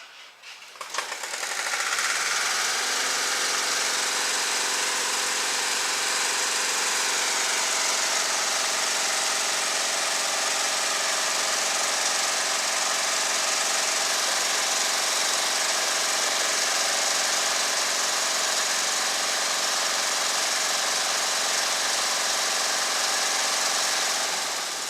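A small gasoline engine sputters into life, runs at a steady speed for about twenty seconds, then dies away near the end.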